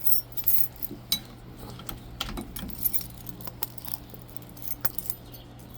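A bunch of keys jangling and clinking as they are handled, in a string of short, sharp clicks.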